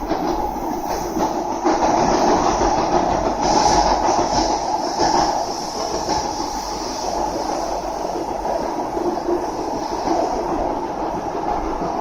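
Cabin running noise of an SMRT Kawasaki C151A metro train travelling underground between stations: a steady rumble, with a few faint wheel clicks in the first few seconds.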